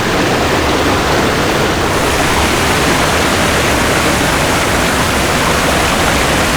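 Rushing water of a waterfall and its stream, a loud, steady rush of noise.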